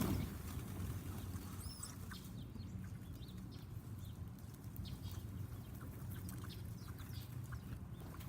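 Backyard birds chirping: short, high calls scattered throughout, with a couple of sweeping notes about two seconds in, over a steady low rumble.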